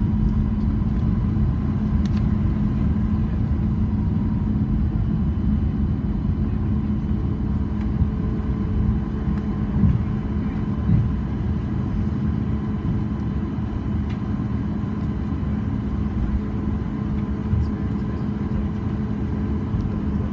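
Cabin noise inside a Boeing 737 MAX 8: a steady low rumble of the CFM LEAP-1B engines and airframe with a constant hum. Small knocks come about ten and eleven seconds in.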